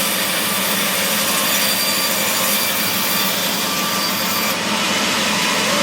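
A power saw cutting through mahogany timber: a steady, dense sawing noise with a low hum beneath it.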